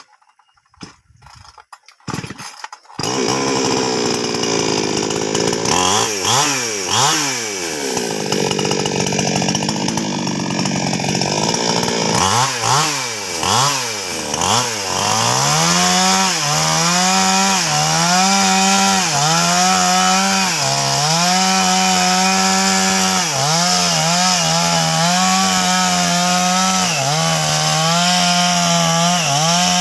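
Two-stroke NWESST 628 chainsaw that comes to life about three seconds in and is revved up and down several times. It then runs at high revs with regular short dips in pitch as it cuts into a sengon trunk.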